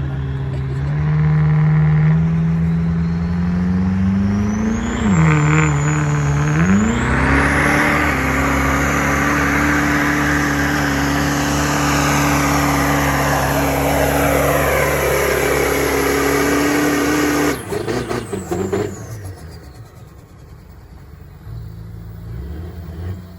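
Diesel truck engine under full throttle on a pull. It climbs in revs, dips briefly, then holds at high revs for about ten seconds with a high turbocharger whistle over it. Then the throttle is let off abruptly and it drops to a quiet low idle.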